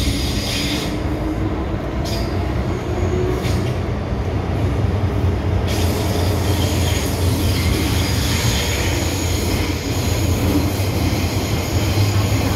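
MTR M-Train heard from inside the car while running underground: a steady rumble of wheels on rail, with a high-pitched wheel squeal that drops away about a second in and returns about halfway through.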